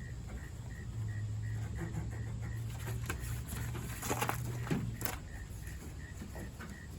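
Handling noise from loosening a truck-tent strap: a few short rustles and clicks around the middle, over a steady low hum and a faint high beep repeating a few times a second.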